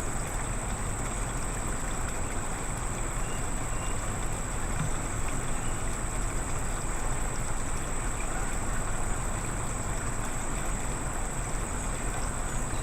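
Steady outdoor background noise with a low rumble underneath and a thin, steady high-pitched tone above it.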